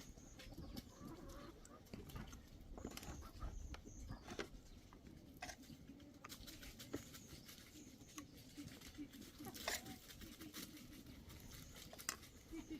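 Faint outdoor ambience with scattered small clicks and knocks and short, high bird chirps now and then.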